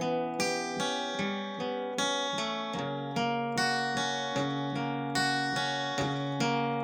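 Acoustic guitar strumming chords in a steady rhythm, about two to three strums a second, with no singing: the instrumental ending of a song.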